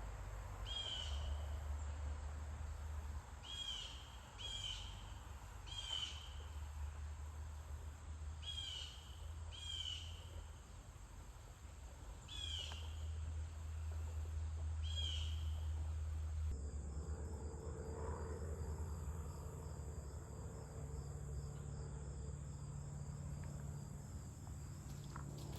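Outdoor natural ambience. A bird repeats a short call that slides downward in pitch, about ten times at irregular gaps of a second or two, over a low rumble. About two-thirds of the way through the sound changes abruptly to a steady, fast-pulsing high insect trill.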